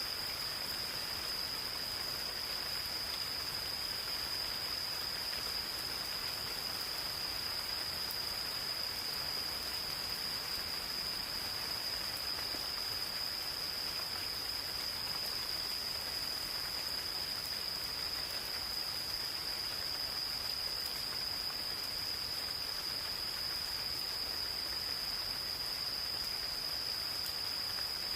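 Gentle rain falling in a forest, a steady even hiss, with insects calling over it in one continuous high-pitched note that never breaks.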